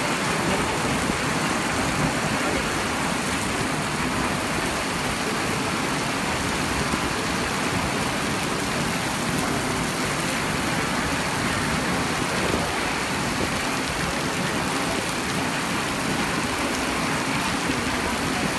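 Heavy monsoon rain pouring down as a steady, dense hiss, with wind gusting through it.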